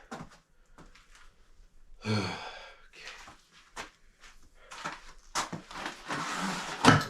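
A man's low groan about two seconds in, then a few seconds of loud breathy noise that is strongest near the end.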